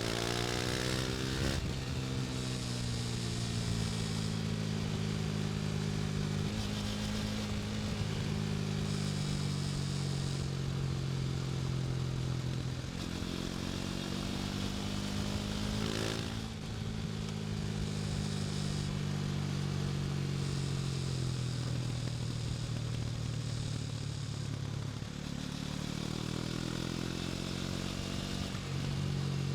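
KTM Duke 250's single-cylinder four-stroke engine running under way, its pitch rising and falling several times as the rider works the throttle and changes gear.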